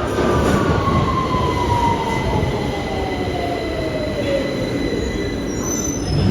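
A vehicle slowing down: a loud rumble with a whine that falls steadily in pitch over several seconds.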